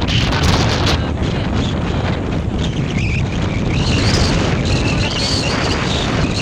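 Gravel rain from a volcanic eruption: many small stones falling and striking surfaces as a dense run of sharp hits, over heavy wind rumble on the microphone.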